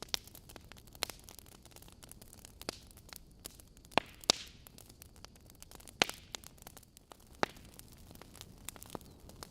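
Wood fire in a fireplace crackling: burning logs give scattered sharp pops and snaps over a soft steady hiss, with the loudest pops about four and six seconds in.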